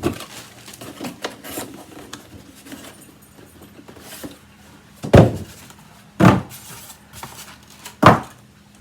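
Three heavy thuds, the last two a little under two seconds apart, with light clicks and rustling between: vacuum parts and packaging being handled and set down.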